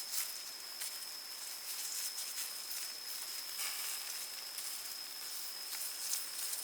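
Outdoor ambience: a steady high-pitched insect drone with scattered sharp crackles and clicks over a soft hiss.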